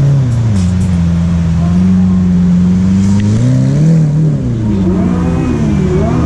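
Supercar engine running at a steady pitch, then revved several times from about halfway, the pitch rising and falling in quick blips.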